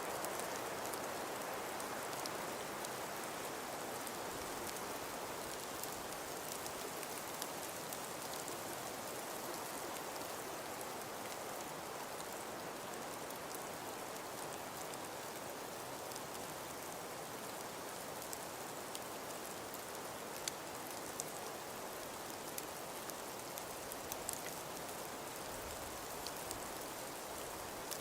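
Steady hiss of wind and falling snow, with faint scattered ticks.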